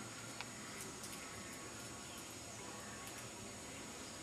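Faint background hiss with a thin, steady high-pitched whine and a few light clicks.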